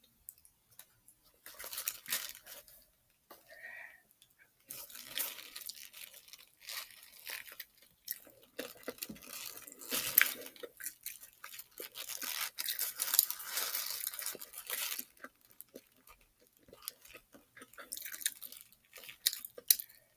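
Close-up chewing and crunching of a fried chicken sandwich's crispy breading, in stretches of crackly bites and chews with short pauses between them.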